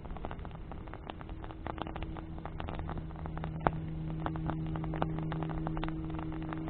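Wood bonfire crackling, with dense irregular pops and snaps; one sharp pop is loudest a little past halfway. A steady low hum runs underneath.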